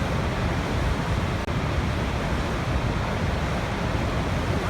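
Waterfall: a steady rush of falling water, even and unbroken, heaviest in the low end.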